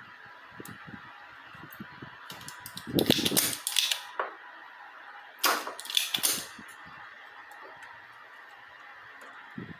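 Sharp clicks and clatter of tools working on a circuit board while a capacitor is desoldered, in two short clusters about three and six seconds in, over a faint steady high hum.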